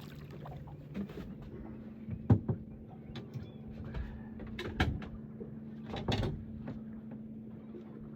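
Several sharp knocks and thumps on a small boat, the loudest about two seconds in, over a steady low hum.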